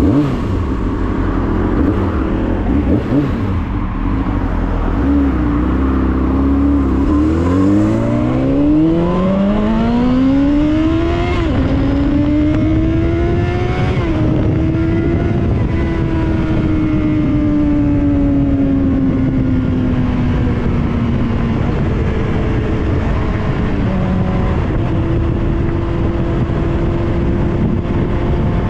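Motorcycle engine pulling away hard: the pitch climbs, drops sharply at a gear change, climbs again to a second shift, then settles into a steady cruise that slowly eases off. Heavy wind and road rush run under it throughout.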